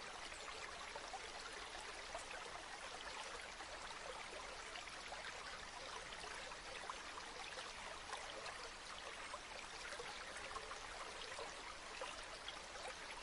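Gently flowing river water: a steady, continuous babble of running water.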